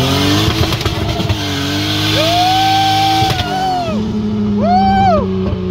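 Nissan Skyline's turbocharged L28 straight-six under acceleration: the engine note climbs, holds, then drops lower about four seconds in. Sharp crackles come right at the start, and two arched higher-pitched tones rise and fall over the engine, one held about a second and a shorter one near the end.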